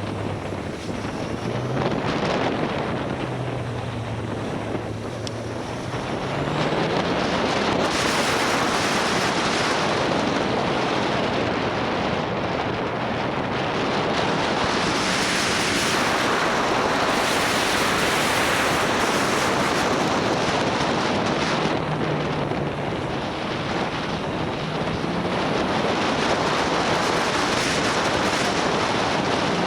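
Motorcycle riding with wind rushing over the microphone, loudest through the middle. Underneath, the motorcycle's engine note rises and falls faintly as it speeds up and slows down.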